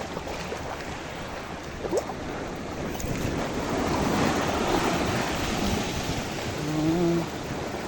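Sea water washing and sloshing around a small kayak, with wind buffeting the microphone; the water noise swells in the middle.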